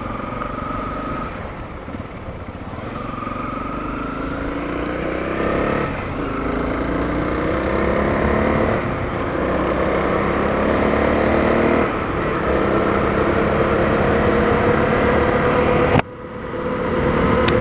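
Honda CRF250L single-cylinder engine accelerating through the gears, its pitch rising and dropping back at each shift about three times. Near the end the sound breaks off abruptly and the engine picks up again.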